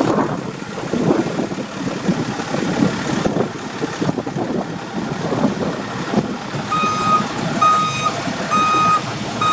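Engine of a 2004 International bucket truck running with an uneven rattle. About seven seconds in, the truck's back-up alarm starts beeping, about one beep a second.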